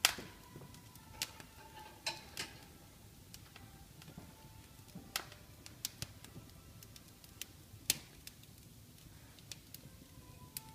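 Wood fire in a fireplace crackling, with irregular sharp pops, the loudest one right at the start, over a low steady hiss.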